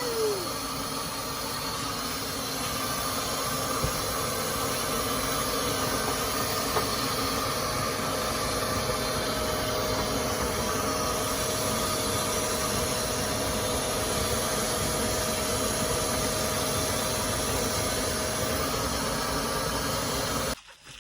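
Household vacuum cleaner running steadily with a steady hum, sucking the air out of a vacuum storage bag packed with bedsheets. It is switched off abruptly near the end.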